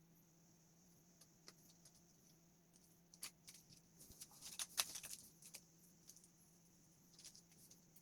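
Faint, scattered small clicks and light rattling, like hard small parts being handled. They bunch together in the middle, over a steady faint hum.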